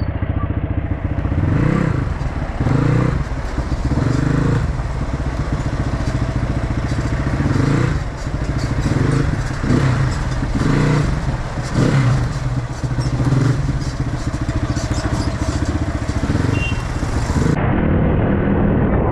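Dirt bike engines running, with repeated short bursts of throttle that rise and fall every second or two.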